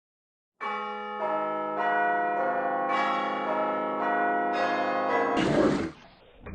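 Bells ringing: a run of struck bell notes, a new one about every half second, each left ringing over the others. The run ends in a short burst of noise.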